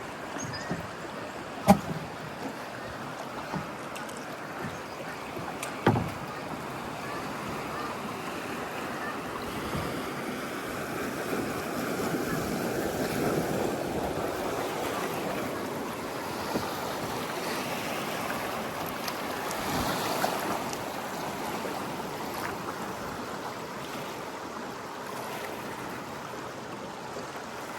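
River water rushing and lapping around a kayak, swelling louder around the middle. Two sharp knocks, about two and six seconds in.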